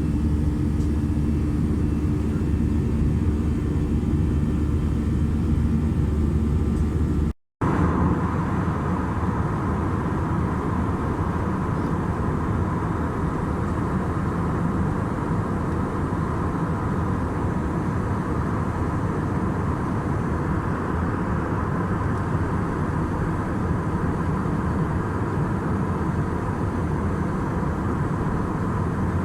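Steady cabin noise of an Airbus A319 with its jet engines running, a low hum with steady tones. It drops out abruptly for a moment about seven seconds in and comes back as a broader, even rush with a steady whine.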